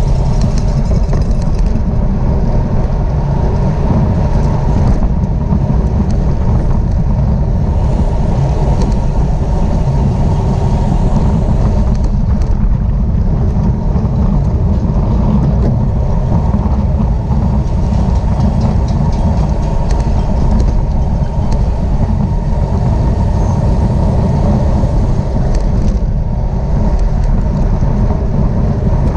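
Steady low rush of wind buffeting the camera's microphone while riding at racing speed in a bicycle race.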